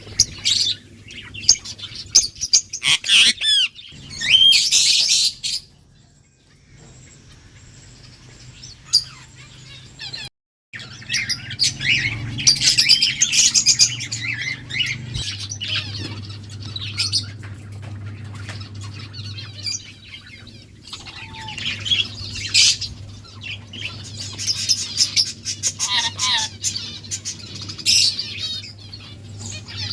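Small pet parrots, lovebirds and budgies, chirping in busy clusters of quick high calls, with a quieter lull about a third of the way in and a brief dropout. A low steady hum runs underneath through the second half.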